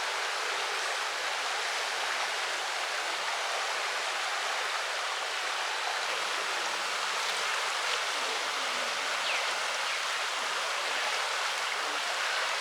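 Shallow stream running steadily, a constant hiss of flowing water with the stream at low seasonal level.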